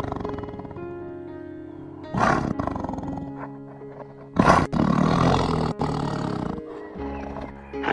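An animal roaring over background music with long held notes: a short roar about two seconds in, then a longer one from about four and a half seconds.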